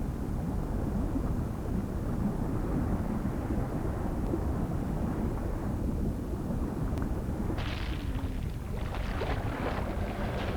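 Steady low rumble of wind and sea in the Antarctic. About three-quarters of the way in, a patter of short, sharp splashing or clattering noises joins it.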